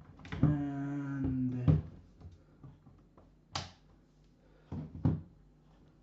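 Handling noises from setting up a mini fridge: a sharp click about halfway through, then two lighter knocks in quick succession near the end, after a drawn-out spoken "and".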